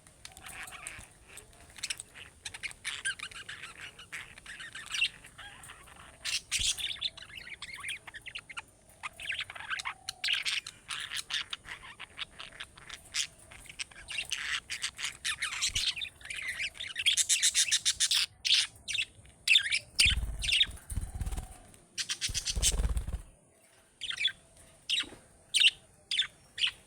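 Budgerigars chattering and chirping continuously, a busy mix of short warbles, clicks and squawks. A couple of short low thuds come about two-thirds of the way through.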